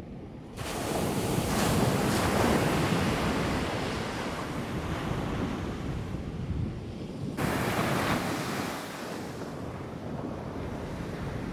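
Ocean surf breaking and washing up the beach, with wind buffeting the microphone. The rush swells up about half a second in and again about seven seconds later.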